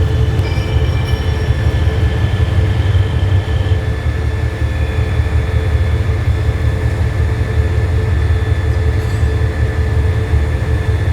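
Diesel-electric locomotive GEK4012 of the State Railway of Thailand, a GE unit, running steadily during shunting. It gives a strong, even low engine rumble with a few steady higher tones above it.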